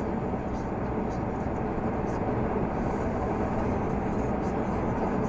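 Renault Magnum 480 truck's straight-six diesel engine running steadily while driving, with a steady rumble and road noise.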